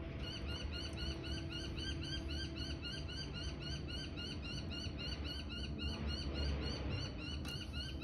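A bird calling one short chirp over and over, about four or five a second, stopping about six seconds in, over a steady low hum.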